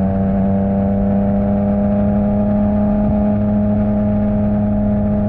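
Yamaha MT-09's inline three-cylinder engine running at steady revs through an Akrapovič exhaust, holding one even pitch as the bike cruises.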